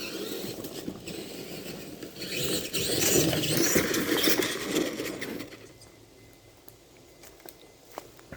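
Tamiya TXT-2 RC monster truck driving over rough ground: drivetrain and tyre noise that swells about two seconds in and dies away after about five and a half seconds, leaving a few faint ticks.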